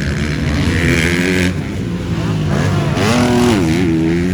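Motocross bikes racing on a dirt track, their engines revving up and down in pitch, with one rev climbing and falling about three seconds in.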